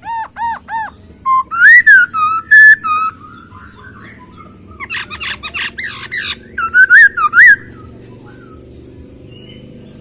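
Black-throated laughingthrush singing loud, clear whistled phrases: three arched notes to begin, then looping rising-and-falling whistles, a fast run of notes and more whistles, stopping about three-quarters of the way through.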